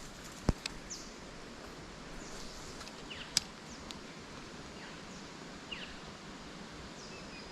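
Outdoor ambience: a steady hiss with short, falling bird chirps scattered through it, and a few sharp clicks, the loudest about half a second in.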